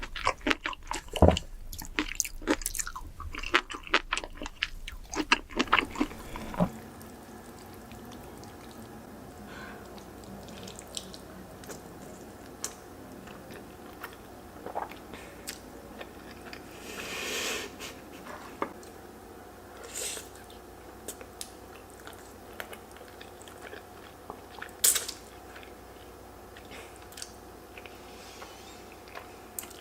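Close-miked eating: rapid crunchy bites and chewing for the first six or seven seconds, then slower, sparser chewing with a few sharper mouth smacks and clicks.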